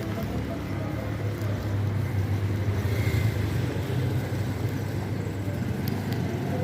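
Street traffic: a steady low vehicle rumble that swells about two to three seconds in, as a car passes.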